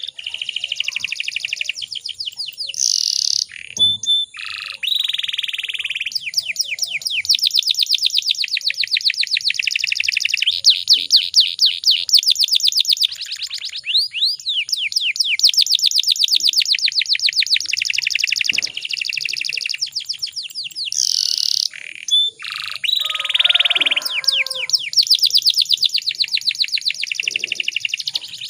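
Domestic canary singing: long, fast trills and rolls of rapidly repeated high chirps, changing phrase every few seconds with brief breaks.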